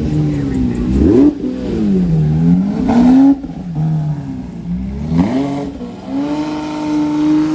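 Car engine revving: the note rises sharply and falls back three times, then holds steady near the end.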